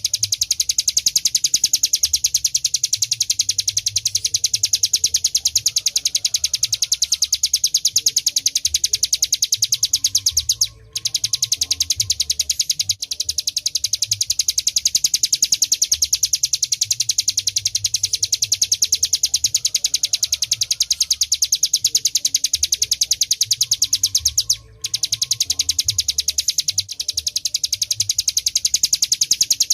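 Hill prinia (ciblek gunung) singing a fast, continuous rattling trill of rapid high notes, the 'ngebren' song. It breaks off twice, briefly.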